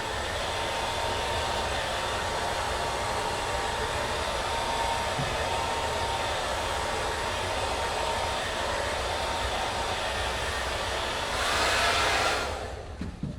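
Handheld blow dryer running: a steady rush of air with a thin motor whine. It gets louder briefly near the end, then is switched off.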